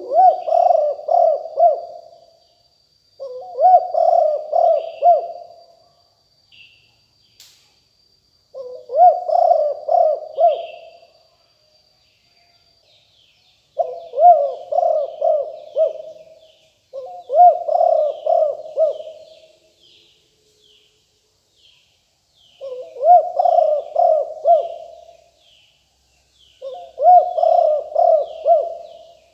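Spotted dove cooing: seven loud phrases, each a quick run of several coo notes lasting about two seconds, repeated every few seconds. Small birds chirp faintly in the background, and a faint steady high whine runs through the first half.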